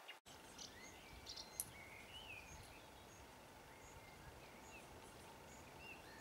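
Faint birdsong over a quiet outdoor hush: scattered short chirps and a few small warbled whistles, with a single sharp tick about a second and a half in.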